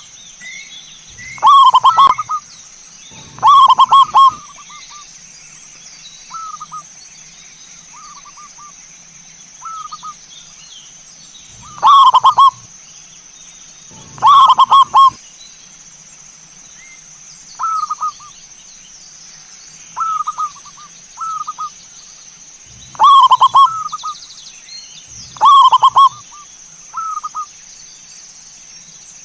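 Zebra doves (perkutut) cooing: loud rolling coos come in pairs about two seconds apart, several times over, with softer coos from another dove in between. A steady high-pitched tone runs underneath.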